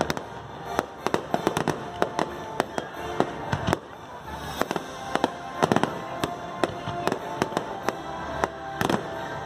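Aerial fireworks bursting in quick succession: dozens of sharp bangs and pops, some much louder than others, over show music.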